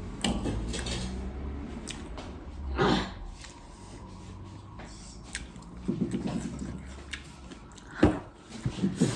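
Eating sounds: chewing and the light clinks and knocks of a spoon or fingers against a plate, scattered short clicks with a couple of louder knocks.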